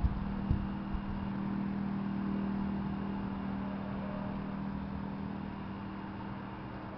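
A motor vehicle's engine running steadily with a low hum, growing louder two to three seconds in and then easing off, as of a vehicle passing. A couple of short knocks sound right at the start.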